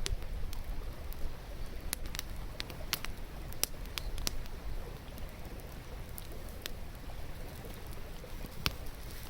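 Wood fire crackling, with irregular sharp pops and snaps over a steady low rushing background.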